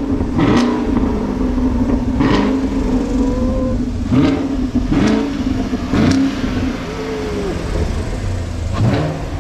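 Chevrolet Camaro SS 1LE's 6.2-litre V8 idling and being blipped with about six sharp throttle revs, each climbing quickly and dropping back to idle.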